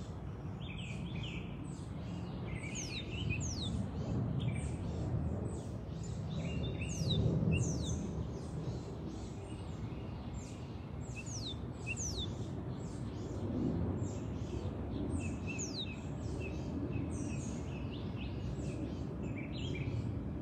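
Northern cardinal calling overhead: many quick, high chirps that slide steeply downward, repeated throughout, over a steady low background rumble.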